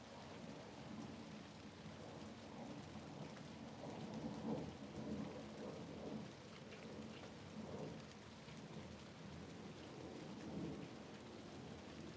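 Steady rain falling against a window, with a low rolling rumble of distant thunder that swells about four seconds in and rolls on in smaller waves toward the end.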